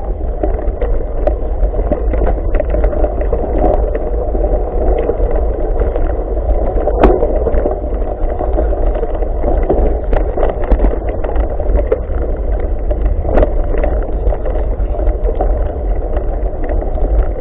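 Mountain bike riding over a dirt trail: a steady rumble of tyres and wind on the microphone, with frequent rattles and knocks from the bike over rough ground.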